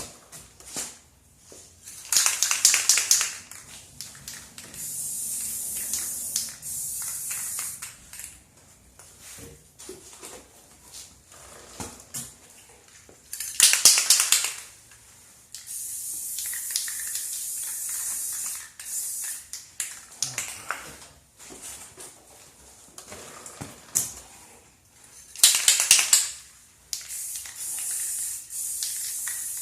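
Aerosol chain wax being sprayed onto a motorcycle chain in repeated stretches of steady hiss. Three louder, harsher bursts come in between, at about 11-second intervals.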